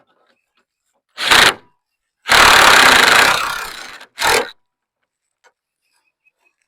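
Impact wrench run in three bursts on the fiberglass hood's mounting bolts: a short one, a longer one of under two seconds that trails off, then another short one.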